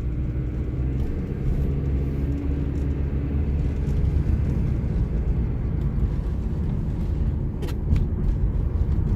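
Low, steady rumble of a car driving, engine and tyre noise heard from inside the car. Two sharp ticks come near the end.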